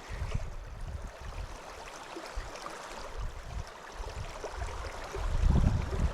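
River water rushing steadily, with uneven low rumbles that swell loudest near the end.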